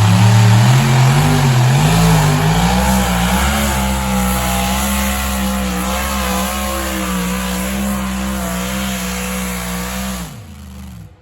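A pulling truck or tractor engine running at full throttle under load on a sled pull. Its revs waver up and down for the first few seconds, then hold steady, and fall off about ten seconds in as the throttle comes off.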